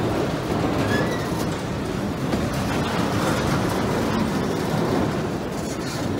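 Empty autorack freight cars rolling past close by: a steady noise of steel wheels running on the rails.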